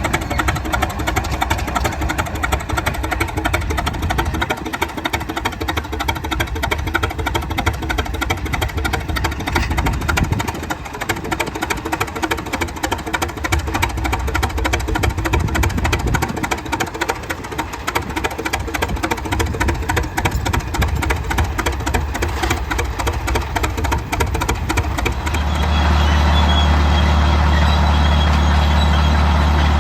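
Antique tractor engine running with rapid, even firing, dipping in level a few times. About 25 seconds in, it gives way to a steadier, deeper engine drone.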